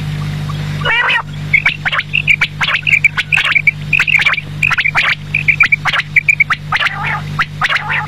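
Quail calling in quick runs of short, high notes grouped in twos and threes, over a steady low hum and frequent sharp clicks.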